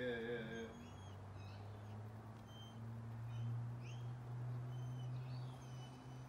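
Birds calling now and then with short chirps and whistles, over a steady low hum.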